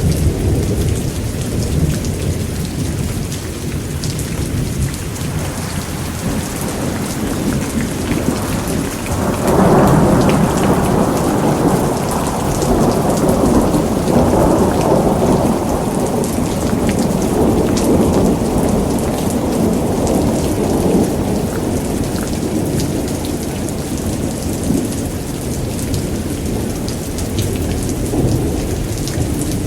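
Thunderstorm: steady heavy rain with rolling thunder. A long rumble of thunder swells about a third of the way in and dies away slowly over the following seconds.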